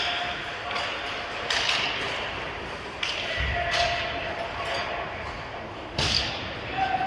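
Ice hockey play echoing in a rink: sharp clacks of sticks and puck three times, a low thud about three and a half seconds in like the puck or a player hitting the boards, and the scrape of skates on ice, with faint shouts.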